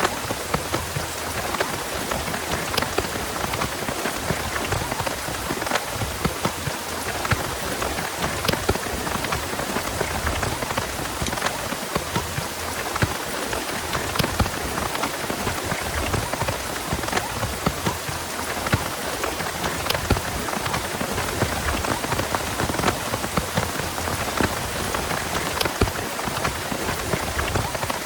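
Heavy rain falling steadily, a dense patter of many individual drops.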